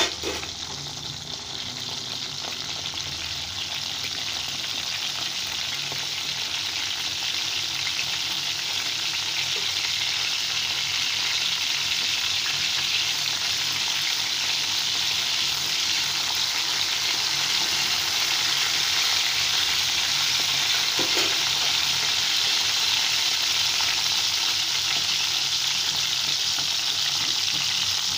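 Small whole slit brinjals sizzling as they fry in hot oil in a kadai, a steady hiss that grows louder over the first several seconds and then holds. A single sharp knock at the start.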